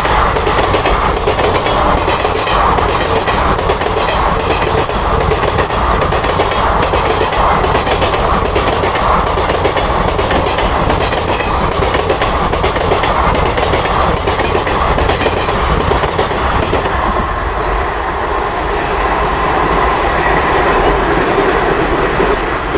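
Passenger coaches of an Indian Railways express train passing close by at speed: a loud, steady rumble with a rapid clickety-clack of wheels over rail joints, the clatter softening a little in the last few seconds.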